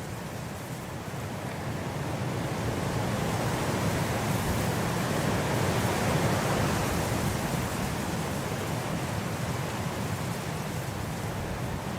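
Blizzard wind blowing, a gust swelling over a few seconds and easing off.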